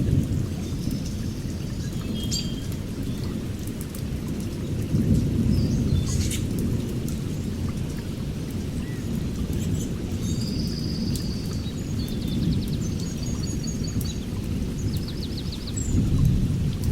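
Steady rain with low, rolling thunder that swells about five seconds in and again near the end. Birds chirp in short, rapid high trills, several times in the second half.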